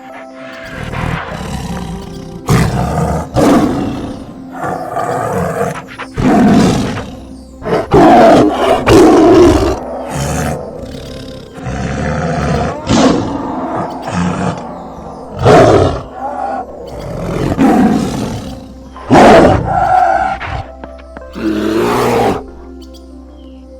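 A big cat roaring again and again: loud, rough roars and growls about every one to three seconds, over steady background music.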